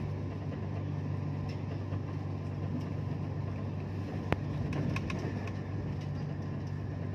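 Steady low rumble of a passenger train in motion, heard from inside the carriage, with a single sharp click a little past four seconds in.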